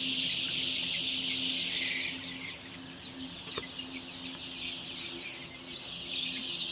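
A brood of 10-day-old layer chicks peeping, many high calls overlapping into a continuous chorus. The chorus thins out about two seconds in and swells again near the end, over a steady low hum.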